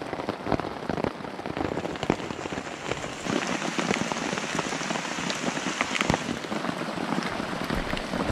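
Steady rain falling, with many separate drops striking close by. The hiss of the rain grows stronger about three seconds in.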